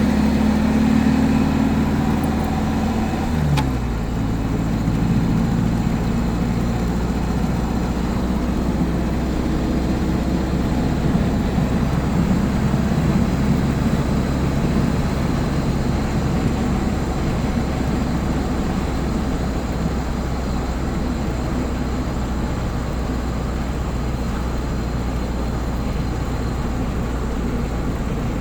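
Old car's engine and road noise heard from inside the cabin while driving, a steady low hum. About three and a half seconds in, the engine note drops briefly, as at a gear change.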